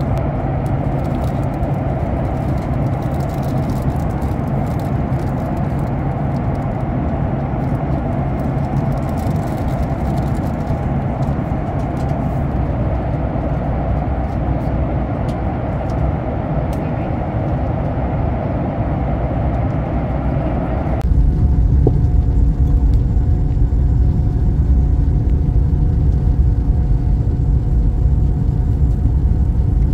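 Steady rumble of engine and airflow noise inside the cabin of a Boeing 737 MAX 8 airliner. About two-thirds of the way through it changes abruptly to a louder, deeper rumble with less hiss.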